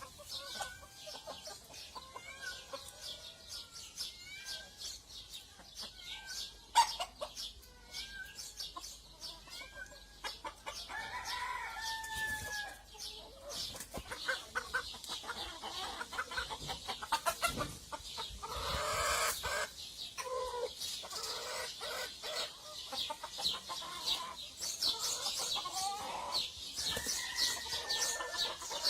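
A flock of Polish chickens clucking and calling continuously, with a rooster crowing a few times in longer, falling calls. There is a single sharp knock about seven seconds in.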